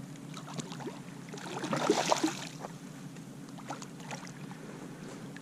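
Water splashing and small knocks at the side of a fishing kayak as a hooked redfish is fought close alongside, with a louder splash about two seconds in.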